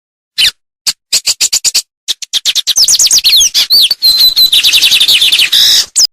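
A songbird singing a fast, varied song: a few separate chirps, then a quick string of short notes building into a dense run of rapid downward-sliding whistles and trills, stopping abruptly near the end.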